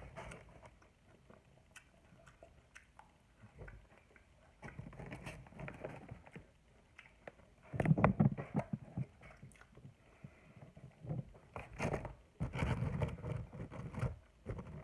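Close-miked chewing of coleslaw, wet crunching and mouth sounds in irregular bursts, loudest about eight seconds in.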